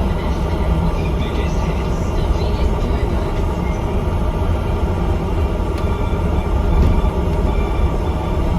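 Bus engine running with road noise as the bus drives, a steady sound that sits mostly low in pitch and holds level throughout.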